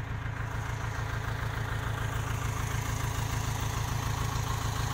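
Case 580K backhoe loader's four-cylinder diesel engine idling steadily.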